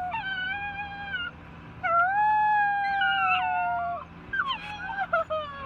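A pet dog or cat giving three long, drawn-out wailing calls, each a held note that sags slightly in pitch, the last one breaking and wavering.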